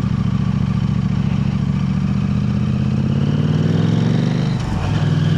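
KTM 890 Adventure R's parallel-twin engine running through an aftermarket Arrow exhaust on the move, its pitch climbing steadily as it accelerates, then dropping briefly near the end before holding steady again.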